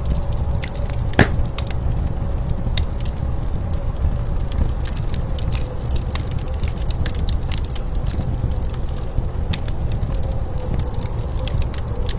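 Wood fire crackling with scattered sharp pops, one louder pop about a second in, over a steady low rumble of blizzard wind with a faint steady whistle.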